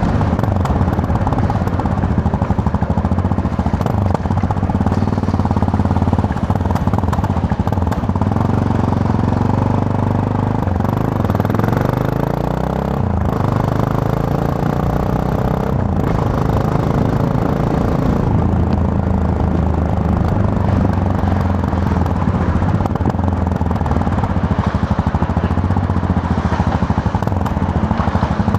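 Yamaha MT-03 motorcycle's 321 cc parallel-twin engine running under way. The engine note dips and then climbs in pitch about halfway through, then holds steady again.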